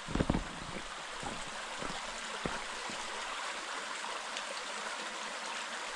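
Creek water running steadily over rocks, an even rushing hiss, with a few soft thumps in the first half second.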